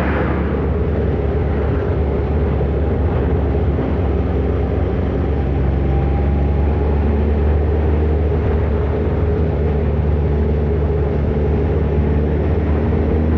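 Kawasaki ZR-7's air-cooled inline-four running steadily under way, its engine note held at a constant pitch, with a haze of wind noise over the top.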